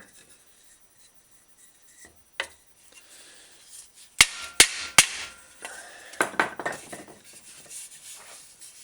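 A small pounder tapping a dent out of a steel bicycle fender: one light knock, then three sharp strikes about half a second apart, then a quick run of lighter knocks and scraping.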